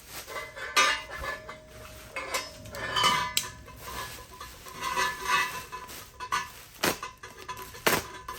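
Thin-walled exhaust pipe sections of a Mazda RX8 exhaust being handled, the metal clinking and knocking irregularly.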